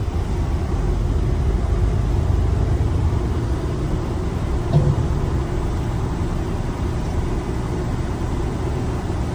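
Steady low rumble of a heavy truck running, engine and road noise, with one brief thump about five seconds in.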